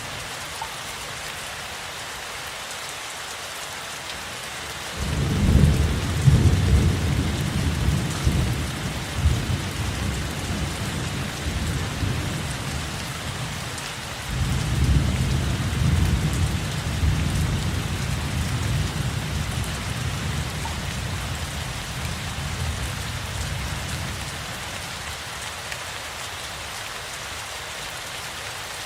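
Steady rain falling, with two long rolls of deep thunder: the first breaks suddenly about five seconds in, the second about fourteen seconds in, fading away over about ten seconds.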